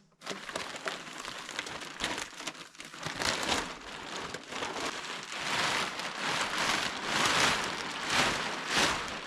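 Plastic sheeting rustling and crinkling as it is unrolled and dragged out across a wooden deck, growing louder in the second half.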